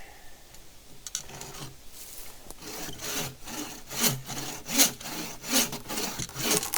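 Saw cutting through a dense oak log in steady back-and-forth strokes that start about a second in and grow louder, near the end of the cut, with the log expected to snap through.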